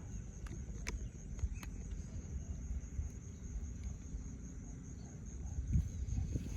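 Insects droning with a steady high buzz, over a low rumble, with a few scattered clicks and knocks, the loudest near the end.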